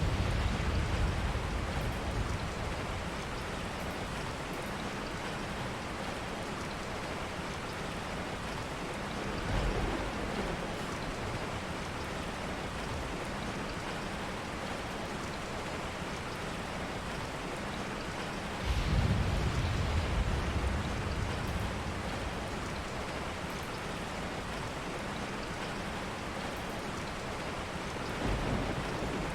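Steady heavy rain, with deep rumbles of distant thunder swelling up four times: at the start, about ten seconds in, strongest about nineteen seconds in, and again near the end.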